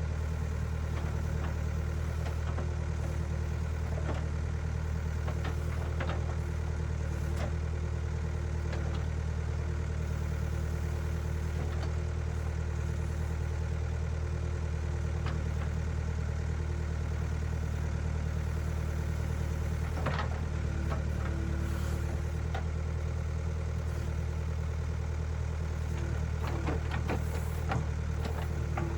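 Engine of a machine working the ditch running steadily at an even speed, with scattered short knocks and clatters, the most prominent about two-thirds of the way through and again near the end.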